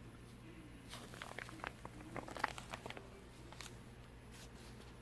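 Paper pages of a handmade junk journal rustling and crinkling as they are handled and turned, with a flurry of small crackles from about a second in.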